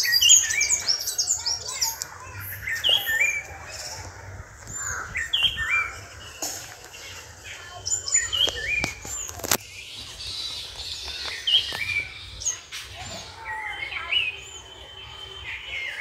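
Small birds chirping and tweeting, many short quick chirps overlapping, busiest in the first second.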